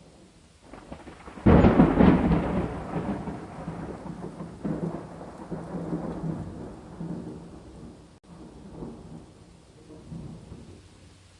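Thunder: a sudden loud clap about a second and a half in, then a rolling rumble that fades in swells over the next several seconds, with steady rain underneath.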